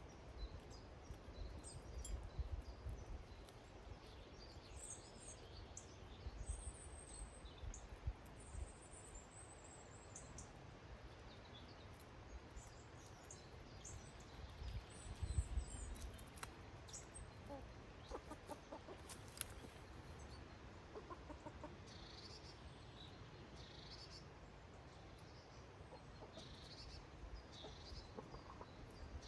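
Domestic hens clucking faintly, with short, high chirps from small garden birds scattered through it and a few low rumbles.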